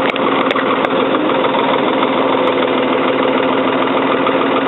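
Diesel engine of a 1977 Ford 555 backhoe running at a steady idle while it warms up, freshly started after two years standing.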